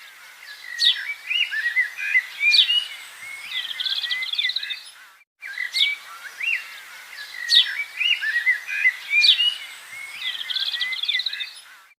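Small birds chirping and whistling in quick rising and falling calls with short trills. The same run of about five seconds cuts out briefly and then plays again.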